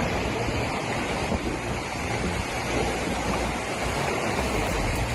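Steady rushing water noise with wind buffeting the microphone and a low rumble underneath.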